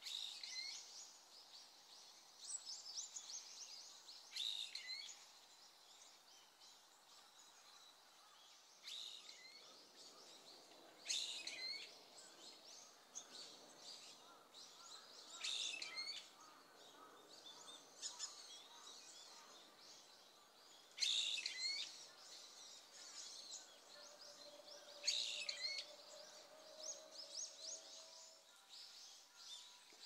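Small bird calling: short bursts of high, sharp chirps with falling notes, repeated every two to four seconds over faint outdoor background hiss.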